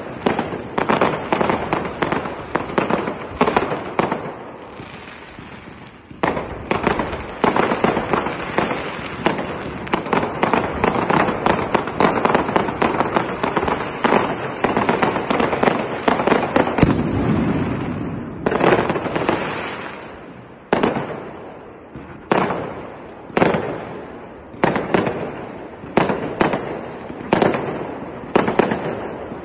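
Aerial fireworks bursting over water: a dense barrage of bangs and crackle for the first two-thirds, easing briefly about four seconds in. In the last third it turns to single loud bangs about a second apart, each dying away before the next.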